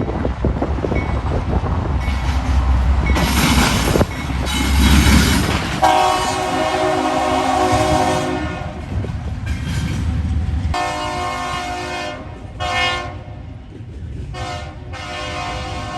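Locomotive air horn on an eastbound CSX stack train sounding the grade-crossing signal: two long blasts, a short one, then a long one, starting about six seconds in. Before the horn there is a loud rumbling roar of the approaching train and strong wind on the microphone.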